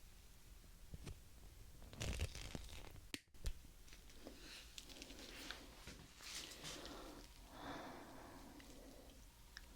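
Nipper pliers worked close to the microphone: scattered small clicks and snips with soft rustling handling noise.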